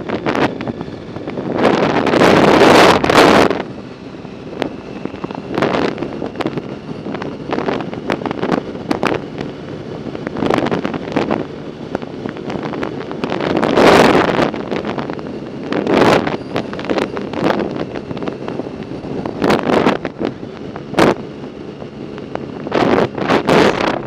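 Wind buffeting a bicycle-mounted or handheld camera's microphone while riding: a loud, rushing noise that swells and falls in irregular gusts, strongest about two to three seconds in and again around the middle.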